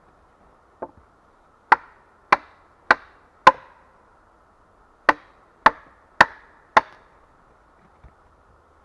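Wood being struck hard with a hand tool: a light tap, then two runs of four sharp blows about half a second apart, each ringing briefly.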